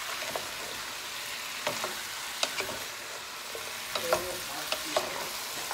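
Chicken feet sizzling in a pot as they are stirred with a wooden spoon, with a steady frying hiss and several short knocks as the spoon and feet hit the pot.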